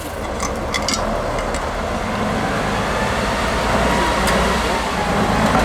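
Heavy off-road trial truck's diesel engine working under load, getting louder, with a thin steady whine coming in about two seconds in. A few sharp clicks in the first second and a half.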